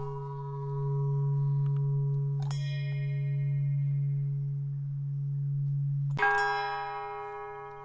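Struck metallic bell tones ringing and slowly dying away, two strikes about four seconds apart with the second louder, over a low steady hum that drops away at the second strike.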